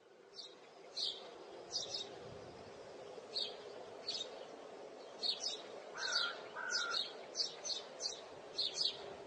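Small birds chirping: short high chirps repeating every half second to second, with a pair of lower whistled notes about six seconds in, over a steady low background hum.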